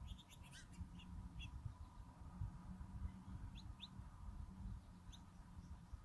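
Wild birds chirping faintly: a handful of short, high chirps scattered through, a few of them quick upward sweeps, over a low rumbling background noise.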